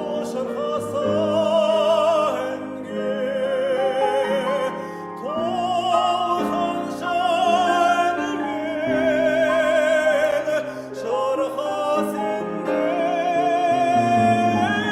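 Classically trained operatic voice singing long held notes with wide vibrato, accompanied by piano.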